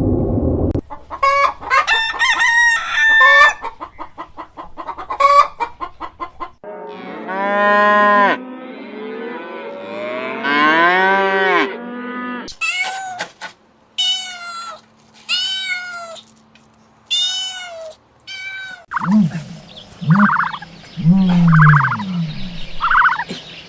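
Chickens: a run of rapid clucking, then two long rooster crows, then a string of short repeated calls.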